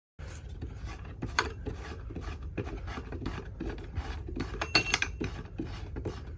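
Continuous rubbing and scraping handling noise, with small irregular clicks and a short ringing metallic clink about five seconds in.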